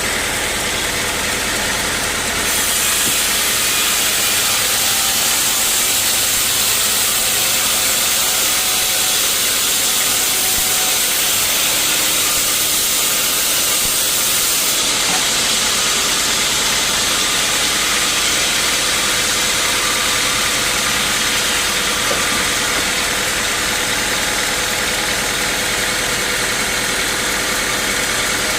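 Sawmill machinery running steadily: a motor's drone under a loud, high hiss that grows louder about two and a half seconds in.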